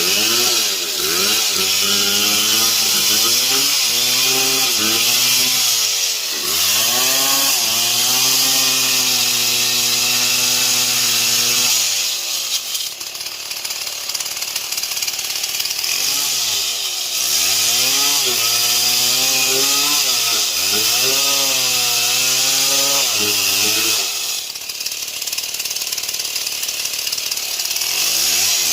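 Stihl MS 070 two-stroke chainsaw sawing wood, its engine pitch repeatedly rising and falling under load over the loud rasp of the chain. Twice it eases off for a few seconds before cutting again.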